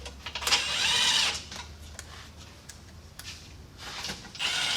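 A small power tool whirring in two short bursts, about half a second in and again near the end, with scattered clicks and knocks of work on the car.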